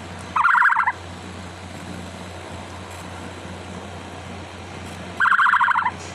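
Domestic hen calling twice, each call a short, rapid burst, one about half a second in and one near the end, over a steady low hum.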